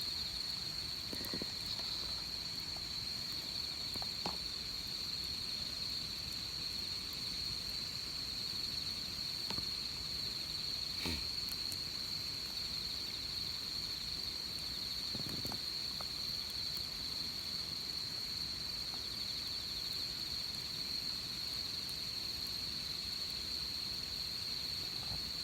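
Insects chirring steadily on one high pitch, with a few sparse pops and crackles from a wood campfire.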